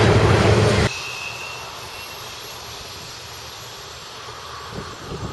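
CSX freight train passing close by, a loud steady rumble with a low hum, which cuts off abruptly about a second in. A much quieter steady rushing noise follows.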